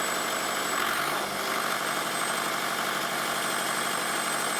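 Lister Petter diesel engine running steadily without an exhaust fitted, driving a 3-phase generator head that is lighting a lamp. A thin, steady high whine sits above the engine noise.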